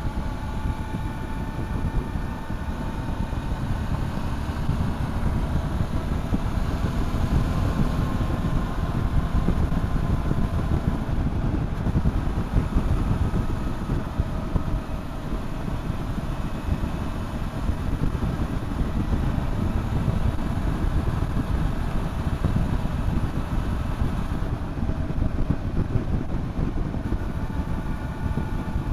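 Motorcycle engine running on the road, its note drifting gently up and down with the throttle, under heavy wind rumble on the microphone.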